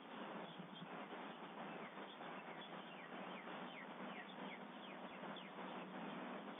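A small animal gives a run of short, high, falling chirps, several a second, over a steady hiss, heard through a doorbell camera's microphone.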